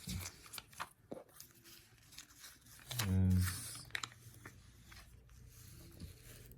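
Paper rustling and crinkling as a LEGO instruction booklet is handled and its pages are flipped, with scattered small clicks. A short hum of voice about three seconds in.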